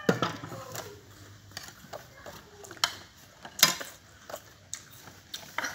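Crisp water apple (tambis) being bitten and chewed close to the microphone: scattered wet crunches and clicks, the loudest a little past halfway.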